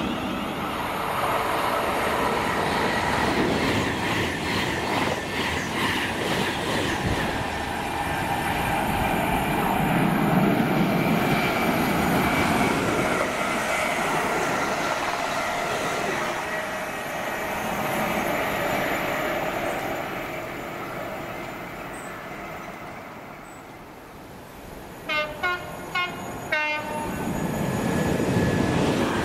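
Passenger trains pass through the station with a steady rush of wheels on rail that fades after about twenty seconds. Near the end, an approaching Freightliner Class 66 diesel locomotive sounds its horn in four short blasts, and the low rumble of its engine and container train then rises.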